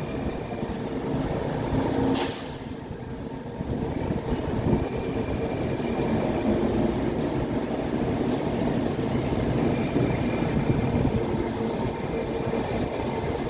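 A train running through a station platform: a steady rolling rumble with a low steady hum, and a short hiss about two seconds in.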